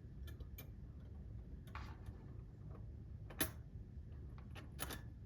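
Irregular light clicks and taps of small metal clock-movement parts being handled and set down, the sharpest about three and a half seconds in, over a low steady hum.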